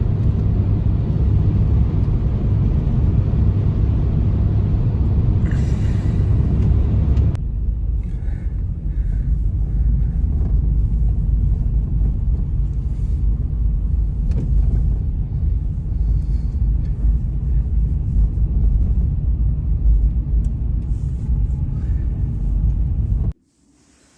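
Strong blizzard wind rumbling low and steady against the microphone. It changes abruptly about seven seconds in and cuts off suddenly near the end.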